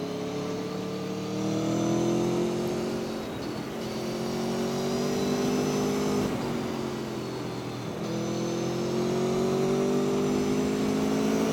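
Aprilia Tuono V4 1100 RR's V4 engine pulling under acceleration, its note climbing, dipping sharply about six seconds in and again near eight seconds, then climbing again, over a steady rush of wind.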